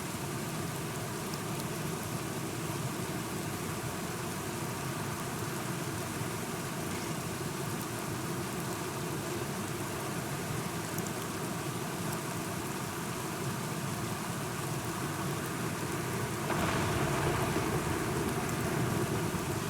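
Steady rainfall, an even wash of rain with a brief louder swell about three-quarters of the way through.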